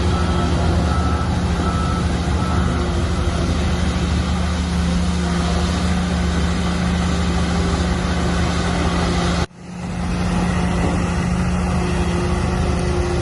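Heavy diesel earthmoving machinery running steadily under load, with a reversing alarm beeping for the first few seconds. The sound cuts out abruptly for a moment about nine and a half seconds in.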